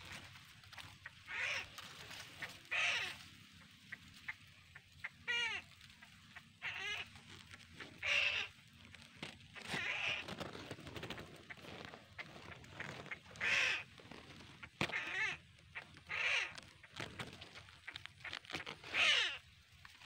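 A bird calling over and over: about ten short, harsh honk-like calls at uneven gaps of one to three seconds, some falling in pitch.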